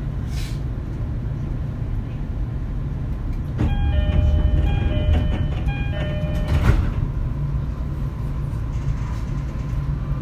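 Running sound inside an E231-series motor car: a steady low rumble of wheels and running gear on the rails. About three and a half seconds in, ringing tones from outside grow louder for about three seconds and step down in pitch as they pass, like a level-crossing bell going by.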